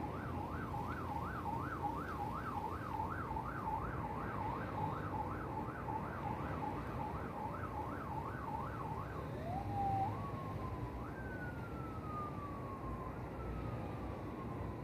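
Electronic siren: a fast up-and-down warble, about two cycles a second, that changes about nine seconds in to slower sweeps that jump up and glide slowly down, over a low rumble.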